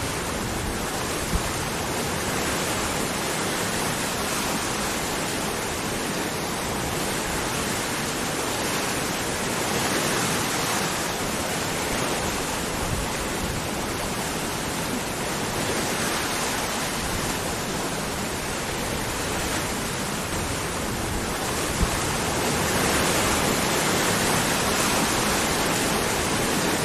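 Waterfall: a steady, even rush of falling water with no pitch to it, getting a little louder in the last few seconds.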